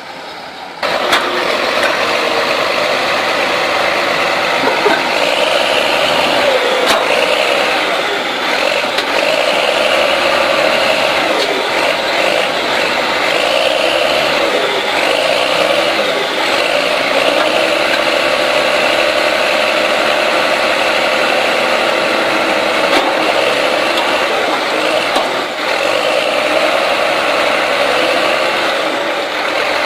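Heavy earthmoving machinery's diesel engine running hard, starting abruptly about a second in, with a higher whine that swells and fades over and over.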